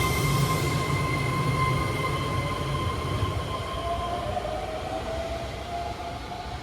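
Keihan electric train running: a steady whine fades out over the first few seconds while a fainter rising whine begins about four seconds in, over a low rumble that grows quieter throughout.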